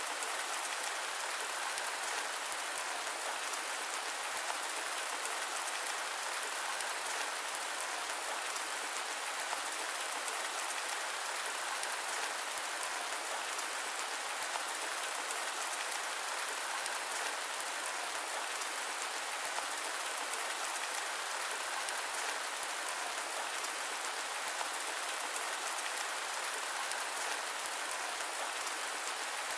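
Steady rain, an even hiss with no low rumble and no changes.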